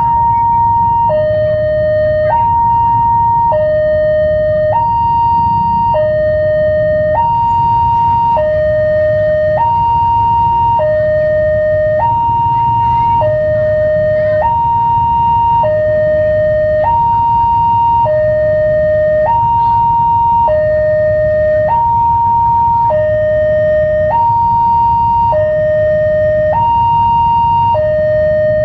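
Railway level-crossing warning alarm sounding a steady two-tone hi-lo signal, switching between a higher and a lower tone about every second, warning that a train is approaching. A low rumble runs underneath.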